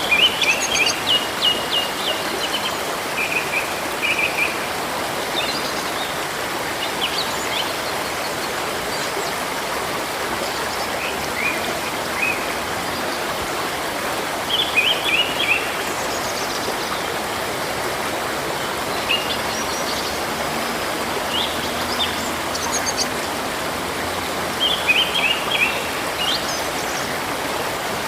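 River water flowing steadily, with songbirds calling over it in short groups of rapid chirps every few seconds.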